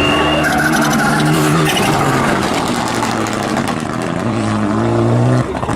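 Rally car engine running hard at high revs, its pitch climbing over the last couple of seconds before it cuts off abruptly.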